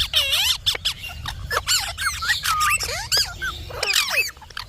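Indian ringneck parrot chattering: a rapid run of short squeaks and whistled notes gliding up and down, several a second, with sharp clicks between them.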